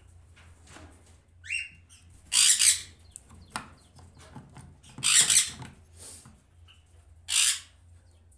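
Pet conures squawking: three loud, harsh screeches a few seconds apart, with a shorter call before them and softer chirps between.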